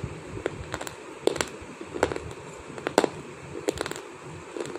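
Slate stone being chewed: sharp, irregular crunching crackles that come in small clusters several times.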